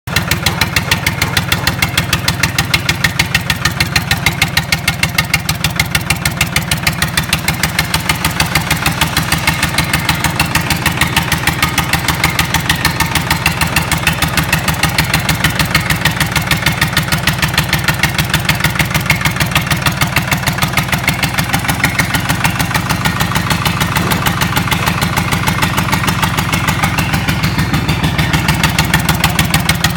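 Freshly rebuilt Lister Petter SR3 three-cylinder air-cooled diesel engine running steadily at a constant speed, with even, rapid firing pulses.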